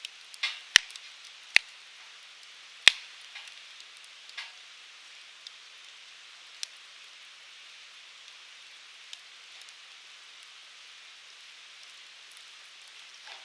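Firewood burning in a fire pit: a steady soft hiss of the flames with sharp crackling pops, three loud ones in the first three seconds, then only a few lighter crackles.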